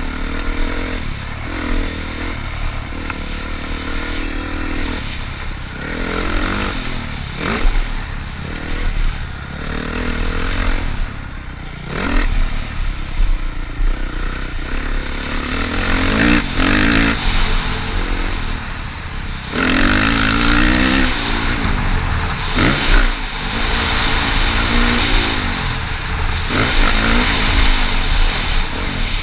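Motocross dirt bike engine revving up and down over and over, with pitch rising and falling as the throttle opens and closes, over a steady low rumble.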